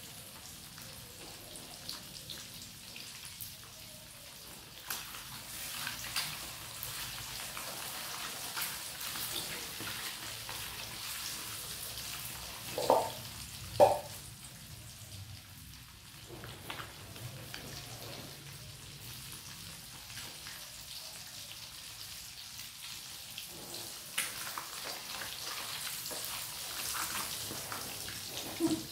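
Boiled quail eggs frying in a pan, a steady sizzle with scattered crackles and pops. Two louder knocks come close together near the middle.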